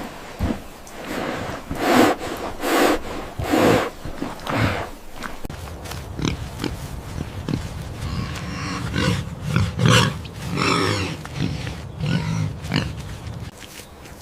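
Pigs grunting in a run of short, rough calls, denser in the second half.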